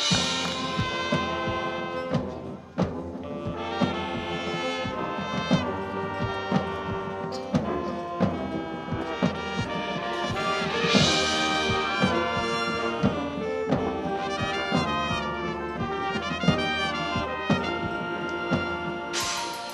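Marching band playing a brass-led passage, trumpets and trombones holding chords over regular drum strikes, with bright crashes at the start, about halfway through and near the end.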